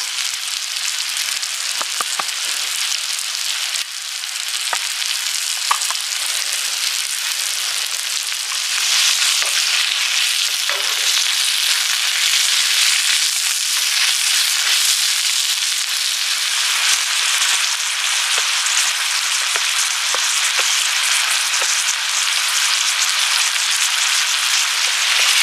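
Bacon, chicken thigh, shrimp and long green onion sizzling in butter in a hot cast-iron skillet, with a wooden spatula turning them and clicking against the pan now and then. The sizzle grows louder about nine seconds in.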